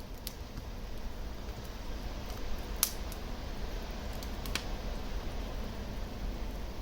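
Wood fire crackling in a fireplace: a steady low rumble of flames with scattered sharp pops, the loudest nearly three seconds in and another about four and a half seconds in.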